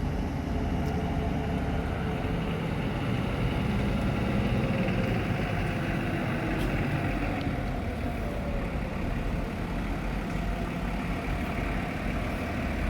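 Heavy diesel truck engine running steadily with a deep rumble.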